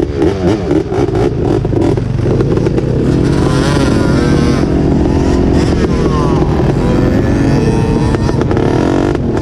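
Off-road engines revving loudly: quick throttle blips in the first second or so, then running at high revs with the pitch rising and falling several times.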